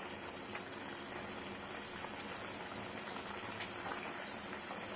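Chicken pepper fry in a pan, bubbling and sizzling steadily as its liquid cooks down.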